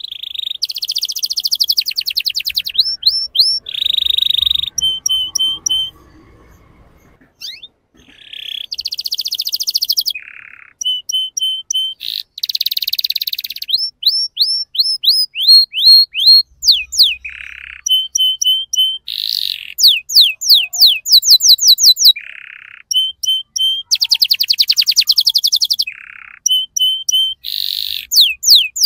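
Male canary singing a long song of rapid rolls and trills: quick runs of repeated sweeping whistles, buzzy trills and short held notes, with a brief pause about six seconds in.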